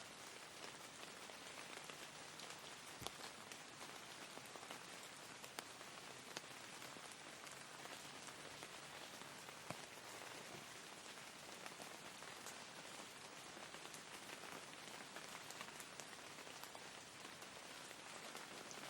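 Steady rain falling, with scattered individual drops ticking more sharply now and then.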